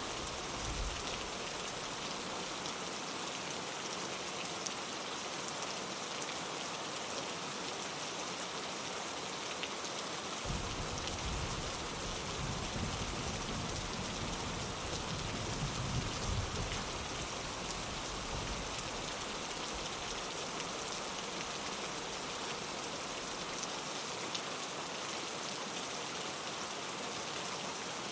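Steady rain falling on a window. About a third of the way in, a low rumble of distant thunder comes in, swells and fades.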